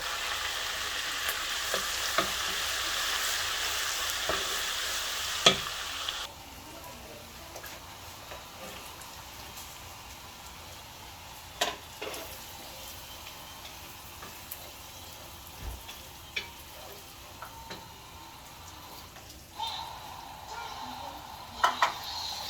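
Food frying in hot oil in a pan while it is stirred, with a cooking utensil knocking against the pan now and then. The sizzle is loud for about six seconds, then drops suddenly to a quieter sizzle with scattered clicks.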